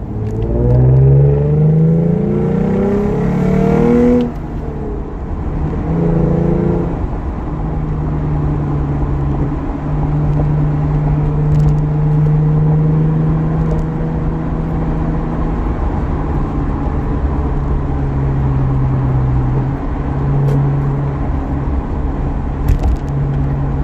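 Lexus IS350's 3.5-litre V6 through high-flow secondary cats, a resonator and an F-Sport axle-back exhaust, heard from inside the cabin. It revs up hard in second gear for about four seconds, drops sharply as it shifts up, pulls briefly again, then settles to a steady note at highway speed.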